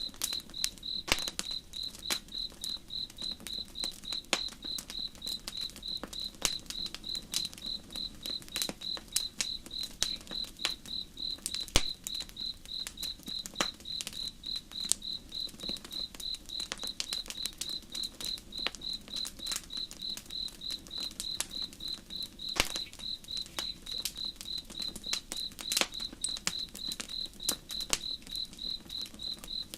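Campfire crackling with scattered sharp pops, over a cricket chirping steadily at about three chirps a second. A low, even rush of slow river water sits underneath.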